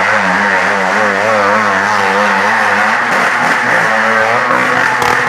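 Motorcycle and car engines at a stunt show, revving hard with their pitch swinging up and down again and again.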